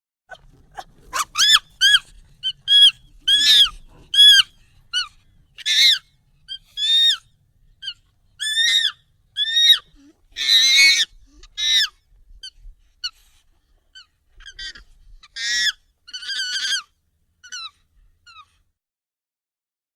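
Monkey calls sped up and pitched up nightcore-style: a run of short, high-pitched calls, each rising and falling in pitch. They come every half second to a second and thin out toward the end.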